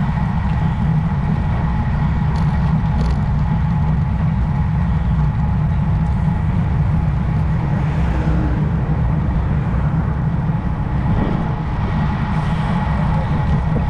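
Steady low wind and road rumble from riding a road bike at speed, heard on the rider's own camera.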